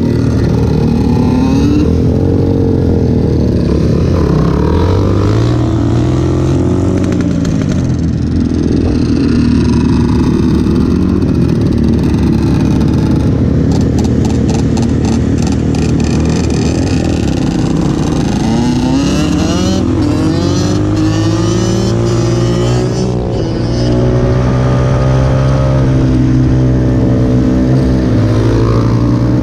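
Off-road vehicle engine revving under riding load, its pitch climbing and dropping repeatedly as the throttle is worked and gears change. Midway there is a brief fast rattle, and after that the engine climbs steeply and holds high revs.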